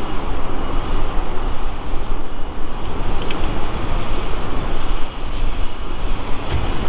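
Strong wind buffeting the microphone: a loud, continuous rushing noise whose level flickers with the gusts.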